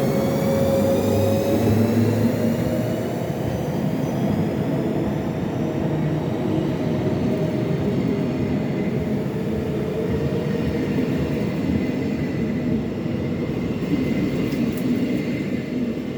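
ÖBB class 1144 electric locomotive running with its cooling blowers going and a whine that rises in pitch over the first few seconds as it accelerates, then settles into a steady drone.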